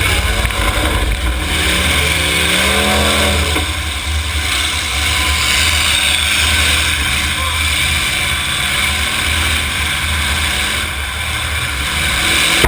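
Demolition derby cars' engines running and revving loudly in the arena, a dense steady rumble, with a bending pitched tone for a couple of seconds about a second in.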